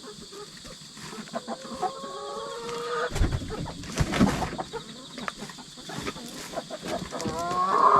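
Chicken hens calling: one drawn-out call a couple of seconds in and a louder one near the end, with a few heavy thumps in between. Insects chirp steadily in the background.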